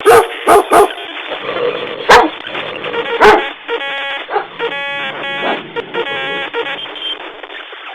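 A dog barking: five loud, sharp barks in the first three and a half seconds. They are followed by a run of short pitched notes, and the whole passage sounds thin and tinny.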